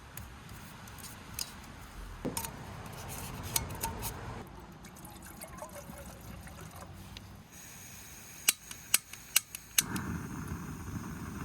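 Clinks and handling of a Jetboil camp stove's cooking cup, then five sharp clicks in quick succession near the end as the piezo igniter is pressed, and the gas burner catches with a steady rushing flame.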